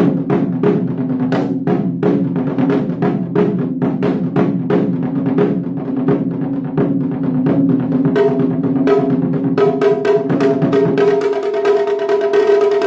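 Ensemble music led by taiko drums struck in a quick, steady rhythm, several strokes a second, over held pitched notes. Near the end the lowest held notes drop away.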